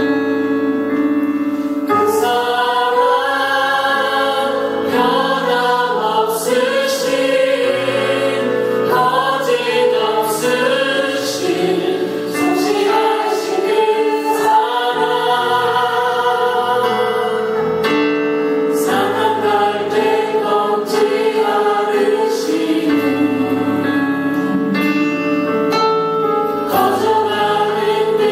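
A choir singing a Christian worship song with instrumental accompaniment.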